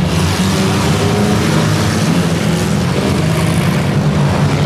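Engines of several compact demolition-derby cars running and revving together on the track: a loud, steady mixed drone.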